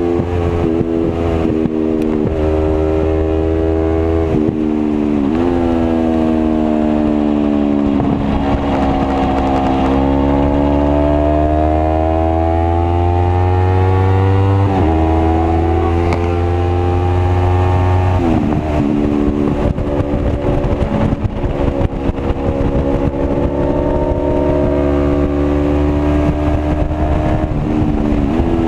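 Sport motorcycle engine under hard riding on a race track. The pitch climbs as it accelerates and drops sharply at each upshift, then sags and swells again as the bike slows for corners and drives out of them.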